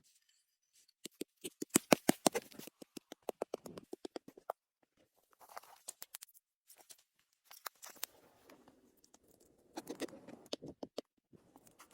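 Packed snow being dug: a quick run of sharp crunches, then softer scraping with scattered crunches.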